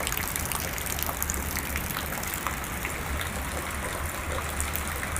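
Heavy rain falling steadily: an even rush of water with many small drop ticks, over a steady low rumble.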